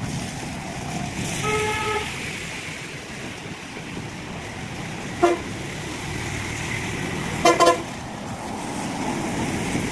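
Vehicle horns honking in street traffic: one horn held for about half a second around 1.5 s in, a short toot just after 5 s, and a quick double toot near 7.5 s, over a steady wash of background noise.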